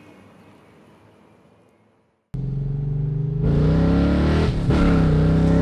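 Car engine heard from inside the cabin, cutting in suddenly about two seconds in and pulling hard under acceleration, with a brief dip in the middle as a gear is changed. Before it, a faint fading rumble dies away to silence.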